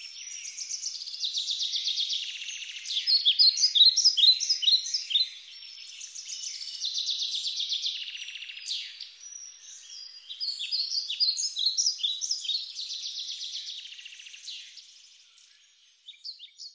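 Several songbirds singing at once, quick trills and chirps overlapping and swelling and fading, fading out near the end.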